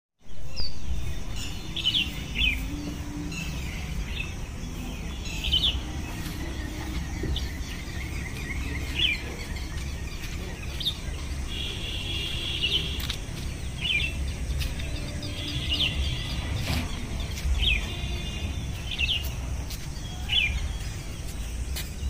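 Small birds chirping: short, sharp calls and a few trilled phrases every second or two, over a steady low rumble.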